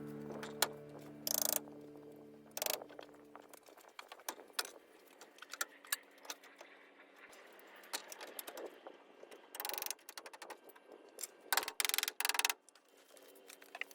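Faint, irregular clicks, taps and clatters of small hard objects being handled, some in quick runs, with background music fading out over the first few seconds.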